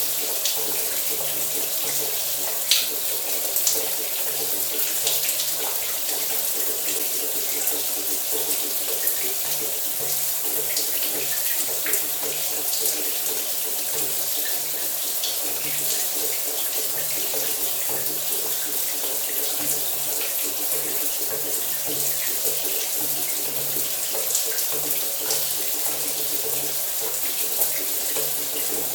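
Shower running steadily, water spraying and splattering, with a few brief louder splashes.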